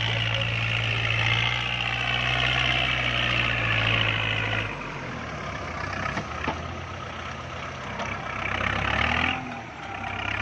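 Kubota MU4902 tractor's diesel engine running under load while pulling a disc plow. The engine eases off about halfway through, then picks up again briefly and once more near the end.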